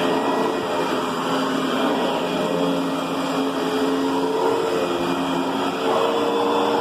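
Riccar Brilliance vacuum cleaner running steadily: a constant rushing motor sound with a hum that wavers slightly in pitch.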